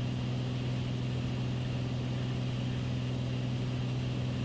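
Beechcraft Bonanza's piston engine and propeller droning steadily in flight, an even low hum with no change in pitch.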